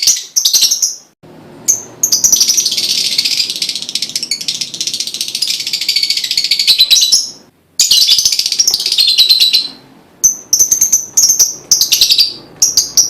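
Lovebird singing: long, dense, high chattering trills, then short shrill chirps repeating a few times a second near the end. This is a lure song ('pancingan'), used to prompt other lovebirds to sing.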